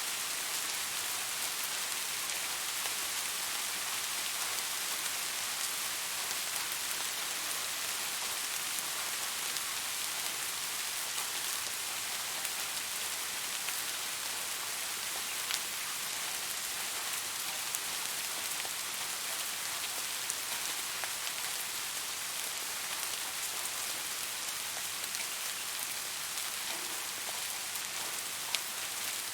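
Steady rain falling, an even hiss with a few sharper individual drop hits now and then.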